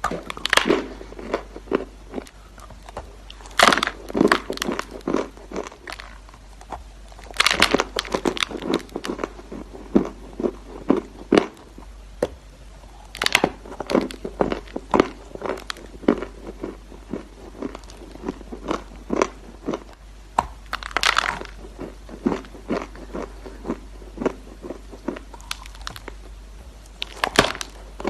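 Round edible chalk bitten and chewed close to the microphone: a loud crunching bite every few seconds, about six in all, each followed by a run of smaller crunches as the piece is chewed.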